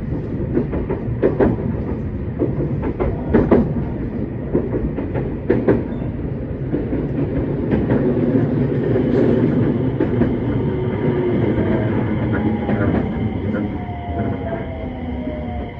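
JR West 227 series electric train running on the rails: steady rumble with sharp wheel clacks over rail joints in the first half, then a falling whine from the traction motors in the last few seconds as the train slows.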